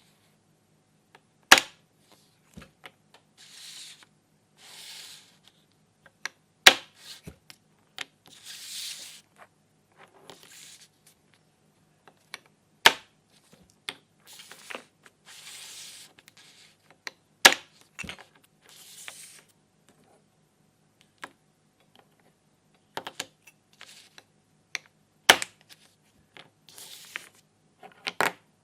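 Plastic toy fruit and vegetables being cut apart with a toy knife: short rasping tears come between sharp plastic clacks, one every four to five seconds.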